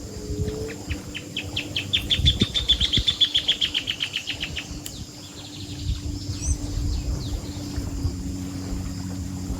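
A bird sings a fast trill of short high notes, about eight a second, lasting some three seconds and swelling then fading. A couple of brief rising whistles follow, over a steady low hum and rumble.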